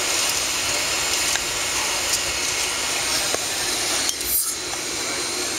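Steady cabin noise inside a taxiing Boeing 757-300: the even hiss of the engines and air conditioning, with a few light clicks and rattles from the cabin. About four seconds in the noise dips briefly under a short high-pitched scrape.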